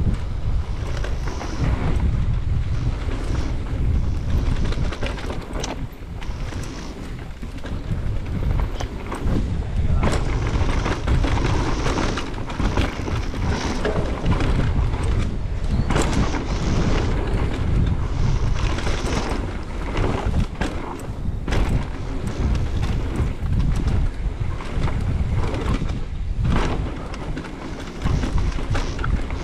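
Wind buffeting the microphone over the rumble and rattle of a mountain bike riding fast down a dirt trail, with frequent sharp knocks and clatters as the bike hits bumps.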